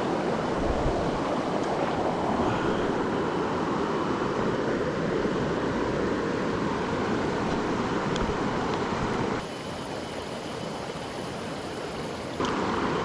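Mountain stream running high and fast: a steady rush of water. About two thirds of the way in it drops to a quieter, duller rush for about three seconds, then comes back.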